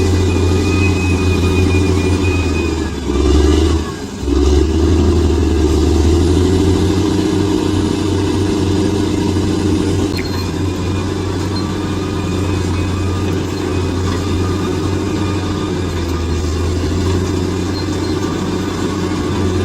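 Bulldozer's diesel engine running steadily under load, with a brief surge and then a dip in the engine note about three to four seconds in.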